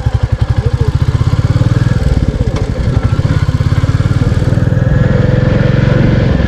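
Royal Enfield Classic 350's single-cylinder engine running under way, a fast even thumping pulse; the note shifts and fills out about two seconds in as the bike pulls on.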